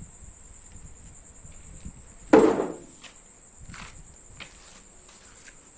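One sharp knock about two and a half seconds in, followed by a few lighter clicks and taps, over a steady high-pitched chirring of crickets.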